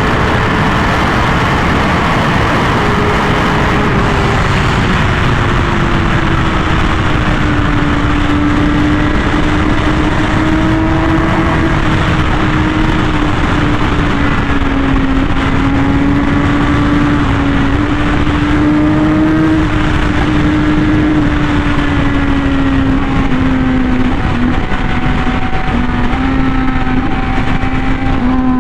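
Honda Fireblade RR-R SP's inline-four engine, fitted with an SC Project exhaust, running hard at sustained high speed, with heavy wind rush. The engine note eases slowly downward across the stretch.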